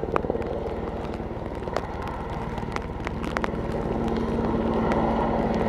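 Twin-engine Airbus Helicopters H215 Super Puma in flight, its main rotor beating in a fast, even pulse over the turbine noise. A steady tone joins about three seconds in and the sound grows slightly louder toward the end.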